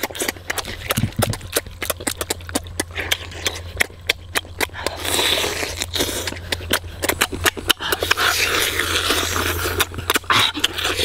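Open-mouthed chewing and lip-smacking of roasted chicken eaten by hand, many quick wet clicks, with meat being torn from the bone and a few breathy puffs blown out over hot food.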